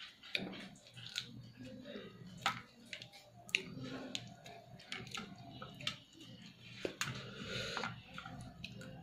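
A person chewing a mouthful of rice and curry, with wet smacking mouth sounds and many short sharp clicks. Fingers squish and mix rice and curry on a steel plate.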